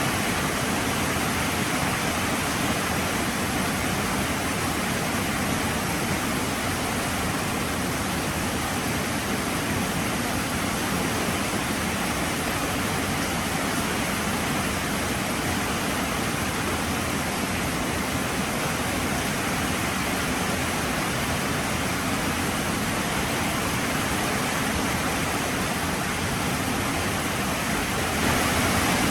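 Heavy rain falling steadily, a dense even hiss that gets slightly louder near the end.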